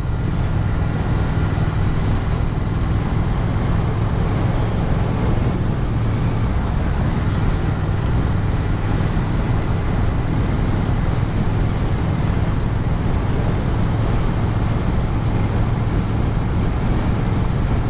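Motorcycle engine running with wind and road noise while riding at a steady pace, a continuous even rumble with no change in pitch.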